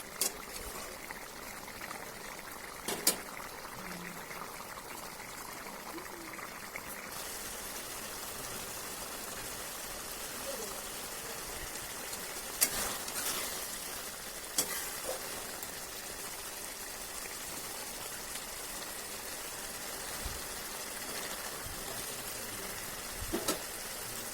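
Chicken curry simmering in a pot with water: a steady sizzling hiss that grows louder about seven seconds in, with a few short sharp knocks.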